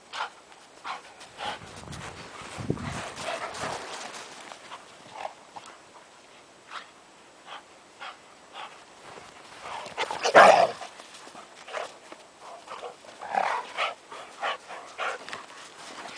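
Two dogs, a Czechoslovakian wolfdog and a Dalmatian, playing rough in snow: scattered short scuffles and dog noises, with one loud outburst about ten seconds in.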